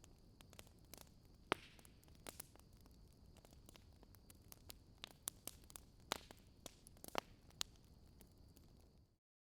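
Wood fire crackling: irregular sharp pops and snaps over a faint hiss with a thin steady high whine. The sound cuts off to dead silence near the end.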